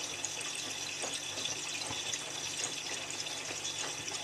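Miele W3744 front-loading washing machine mid-cycle: a steady rush of water running into and splashing about the drum, with a low steady hum beneath and faint soft knocks.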